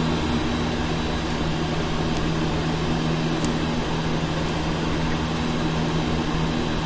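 Steady background hum: a low drone with a faint high whine and a little hiss, unchanging throughout, as from a running fan or similar appliance.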